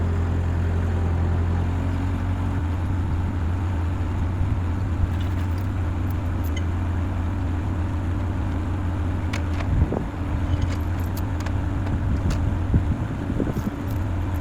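Bobcat skid steer's engine running steadily, with a few sharp clanks in the second half.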